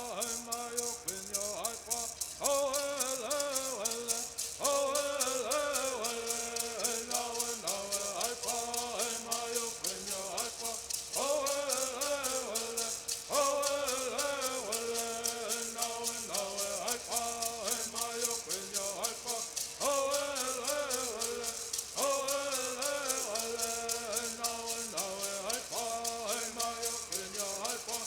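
Bird singing: voices singing a repeating song in unison, phrase after phrase, over the steady rapid shaking of gourd rattles.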